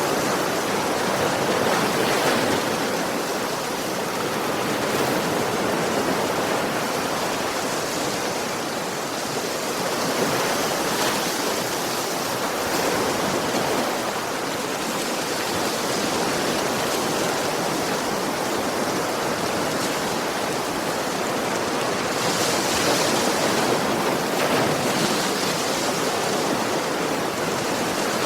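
Ocean waves washing on a shore in a continuous rush of surf, swelling and easing gently every few seconds.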